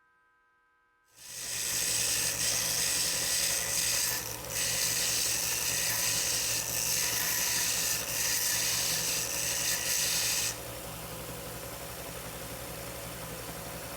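A motor-driven tool starts about a second in and works metal under load with a loud, harsh hiss over a steady hum. About ten and a half seconds in the load eases and it keeps running more quietly.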